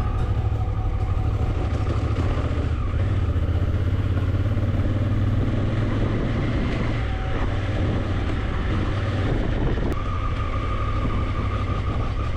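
Motorcycle under way: a steady low engine rumble mixed with road and wind noise, and a thin steady whine that fades in the middle and comes back strongly near the end.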